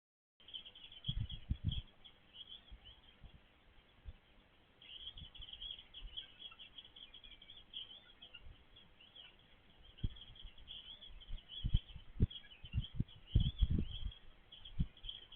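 Small birds chirping and twittering in quick, high notes without a break, with irregular low thumps, loudest and most frequent in the second half.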